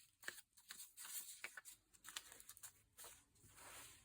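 Near silence with faint, scattered rustles and light ticks of small paper or leaf pieces being handled.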